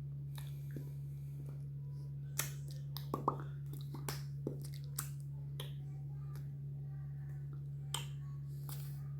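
A handful of irregular sharp clicks and snaps, bunched around the middle, over a steady low hum.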